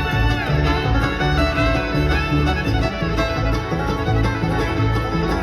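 Live bluegrass band playing an instrumental break, with a fiddle leading with sliding notes over a steady guitar and bass rhythm.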